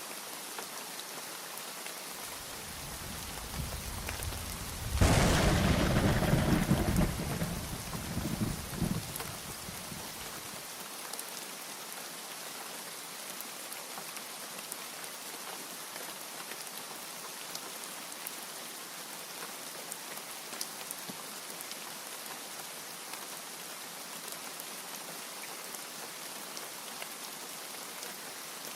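Steady rain with one peal of thunder: a low rumble builds from about two seconds in, breaks into a loud crack about five seconds in, and rolls away over the next five seconds, leaving only the rain.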